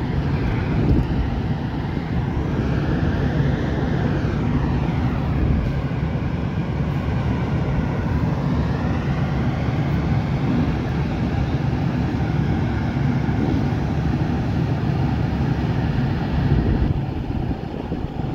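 Diesel excavator running under load, a steady low rumble with a whine that dips and rises in pitch around the middle as the machine works.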